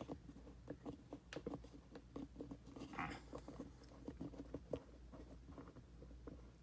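Hands handling and adjusting small plastic pieces of a sea-monkey aquarium set-up: faint, irregular clicks and taps, with a short scrape about three seconds in.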